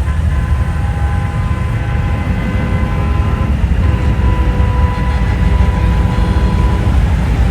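Heavy diesel engines of big-rig trucks running in a convoy: a steady deep rumble, with faint steady higher tones held above it.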